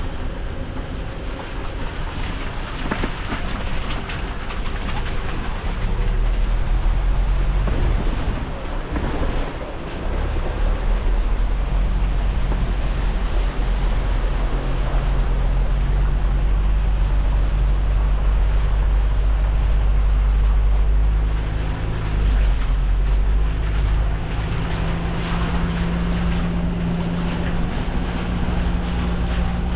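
Off-road 4x4's engine running at low speed, its note stepping up and down a few times, with tyres rolling over the rough, puddled tunnel floor and the sound echoing off the stone walls.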